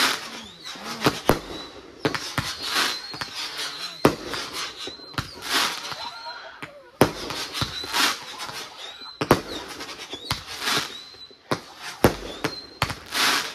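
Consumer aerial fireworks going off in a rapid, irregular series of sharp bangs as shots launch and burst. Several long hisses run between the bangs.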